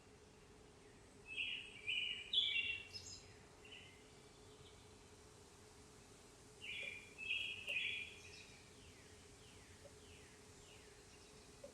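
Wild birds calling in a backyard: two bursts of rapid, harsh-edged notes, the first about a second in and the second past the middle, followed by a few faint falling notes near the end.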